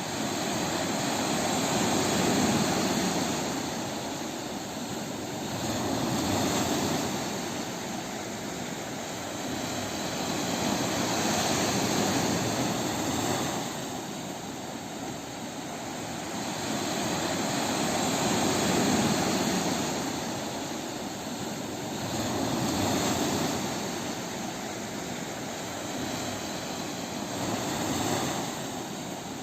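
Sea waves breaking on a beach, a steady rushing hiss that swells and ebbs about six times as each wave surges in and washes back.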